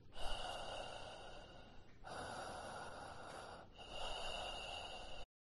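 A person's heavy breathing: long, noisy breaths of about two seconds each, one after another, cutting off abruptly near the end.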